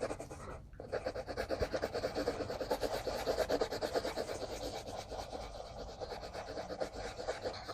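Quick back-and-forth strokes of colouring on paper, a coloring tip rubbing and scratching the page several times a second, as the bird's beak is coloured in.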